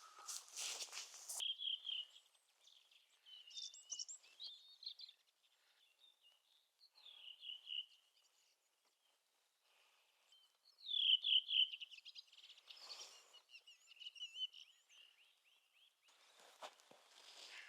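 Songbirds singing in spring woodland, with a song thrush among them: a string of short phrases, the loudest about two-thirds of the way through. Brief rustles come near the start, in the middle and near the end.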